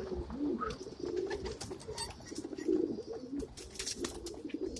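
Several domestic pigeons cooing at once in a loft: low, warbling, overlapping coos, with scattered short clicks.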